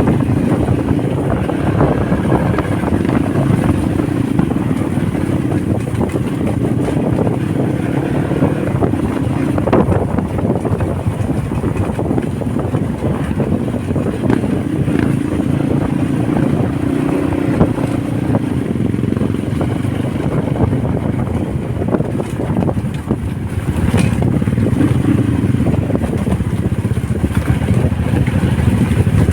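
Honda motorcycle engine running while being ridden, its note rising and falling with the throttle, under steady wind rush on the microphone.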